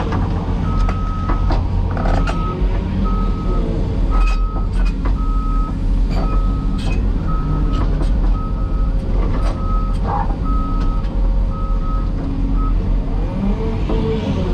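Heavy diesel construction machinery running, with a backup alarm beeping steadily about every 0.6 s; the beeping stops near the end. Several sharp knocks and clanks come in between.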